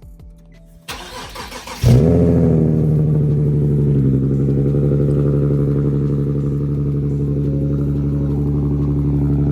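Car engine cold start after sitting for two days. The starter cranks for about a second, and the engine catches with a loud flare about two seconds in, then settles into a steady idle.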